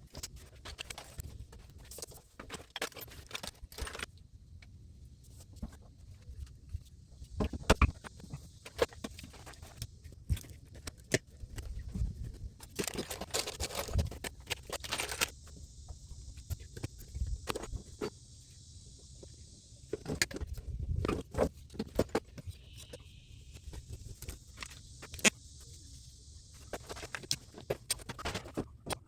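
Hand work on PEX plumbing: scattered clicks, knocks and light metallic rattles of tools and fittings being handled, with a few louder thumps. The background noise changes abruptly several times.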